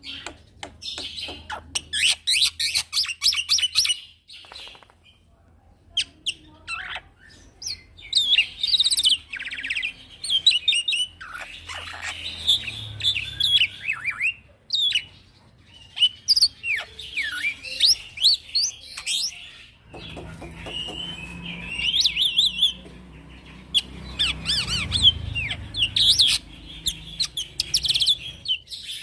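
Young male black-winged starling singing in bursts of sharp chirps, whistles and quick rolling trills, with short pauses between phrases.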